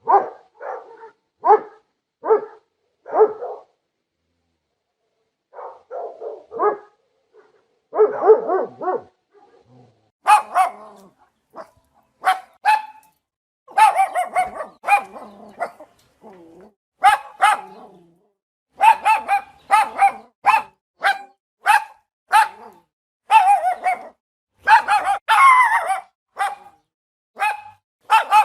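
Dog barking repeatedly in bouts: a few evenly spaced barks, a pause, then from about ten seconds in a run of sharper, louder barks in quick succession.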